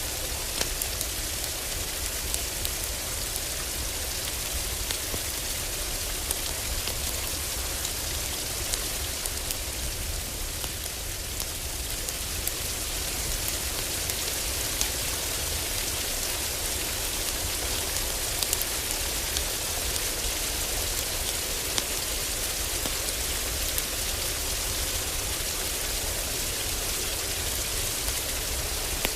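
Heavy rain falling steadily on a roof, a dense even hiss, with sharp crackles from a wood fire scattered through it.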